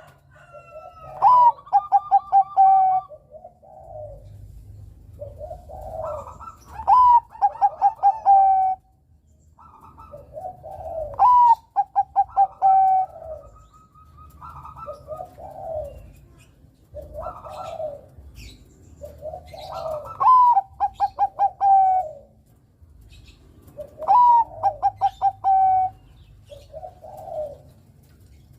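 Zebra dove (perkutut, Bangkok strain) singing its cooing song. Its loud phrases come about every four to five seconds, each a quick run of short coos ending in a longer held coo, with softer coos between the phrases.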